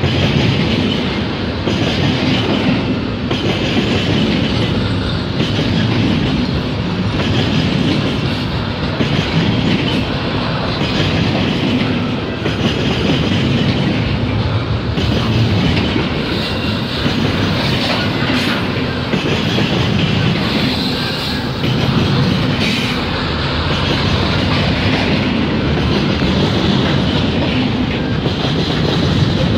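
Canadian Pacific double-stack intermodal container train rolling past close by: a steady loud rumble with the clickety-clack of the cars' wheels over the rail joints, swelling slightly every second or two as the cars go by.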